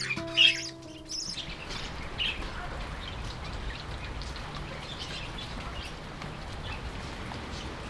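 Budgies chirping over the last held notes of background music, which stops about a second in. Then steady rain falls, with a few faint budgie chirps over it.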